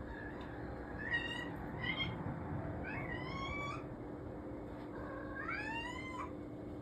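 Domestic cat meowing four times: two short calls, then two longer meows that rise in pitch.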